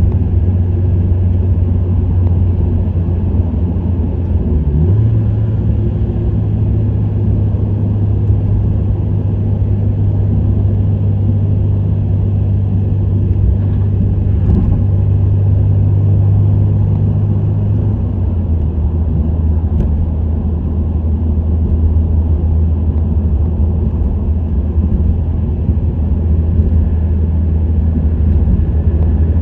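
Subaru WRX STI's EJ20 turbocharged flat-four with an STI Performance muffler, cruising with a steady low exhaust drone over road noise. The drone steps up slightly in pitch about five seconds in and drops back lower around eighteen seconds in.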